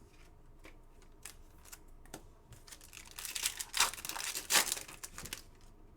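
A few light clicks and taps, then about two seconds of crinkling and tearing, typical of a foil trading-card pack wrapper being torn open.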